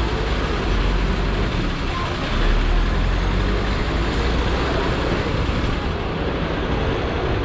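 Busy street ambience: steady vehicle traffic with a low engine rumble, mixed with people's voices in the background.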